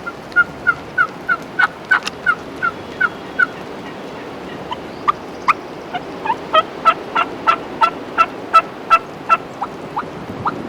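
Wild turkeys calling in two runs of short, evenly spaced yelping notes, about three a second, with a few single sharp clucks between the runs; the second run is louder.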